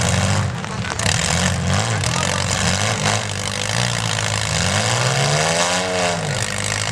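Several demolition derby car engines revving hard at once, with overlapping pitches rising and falling as the cars push against each other. About five seconds in, one engine winds up and back down in a long rev.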